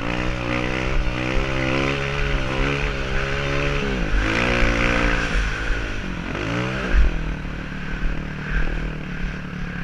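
Honda CRF230's single-cylinder four-stroke engine running on a dirt-bike ride. Its pitch drops sharply as the throttle is shut and then climbs again, first about four seconds in and again just before seven seconds, with a low thump at the second dip. Afterwards it settles at a lower, steadier note.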